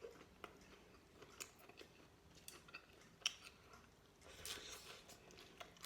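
Faint chewing, with scattered small clicks and crunches of someone eating, a little louder about three seconds in and again near the end.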